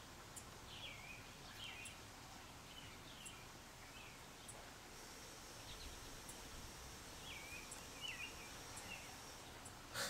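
Faint short chirps of small birds over a soft outdoor hiss: a few scattered through the first half and a quick run of them near the end. From about halfway a thin, steady, high note runs alongside the chirps for several seconds.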